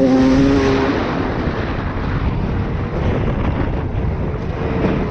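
Dirt bike engine revving up, its pitch rising and then holding steady for about a second. After that, heavy wind rumble on the helmet-camera microphone mostly covers the engine.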